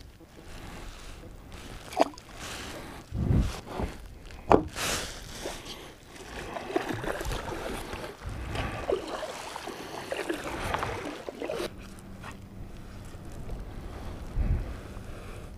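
Wind gusting on the microphone aboard a kayak, with two sharp knocks on the boat about two and four and a half seconds in, and a rustling wash through the middle.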